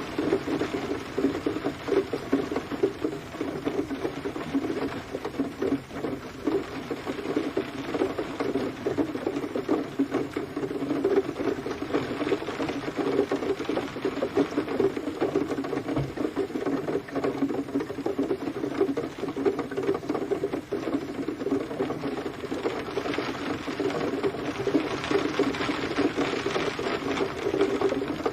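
Steady rain pattering on a hard surface: a dense, continuous rattle of countless small drops with no pauses.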